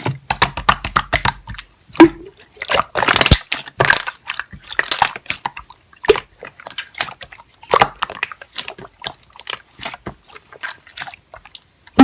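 Slime being squeezed and poked by hand: irregular wet clicks, pops and squelches.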